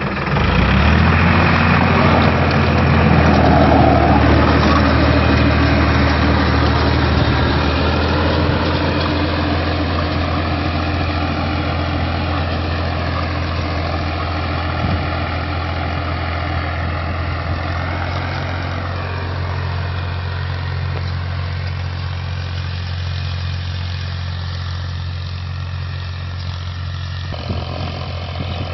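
Tractor engine running steadily, loudest in the first few seconds and easing slightly after.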